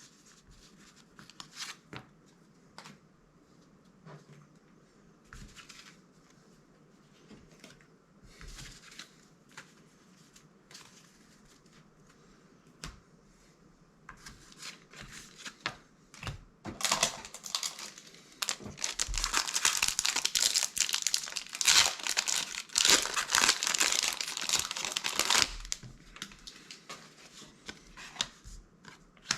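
Plastic foil booster-pack wrapper being handled, torn open and crumpled: light scattered rustles and ticks, then a dense crinkling of about nine seconds in the second half.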